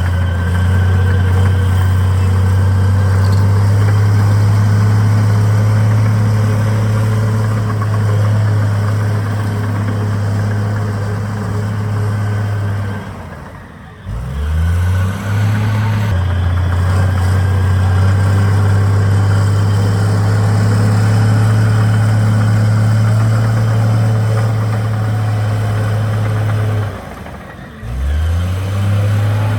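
Heavy diesel engine of an earthmoving machine running steadily under load. Twice, about halfway through and again near the end, it drops in speed and loudness for a moment, then rises back up in pitch.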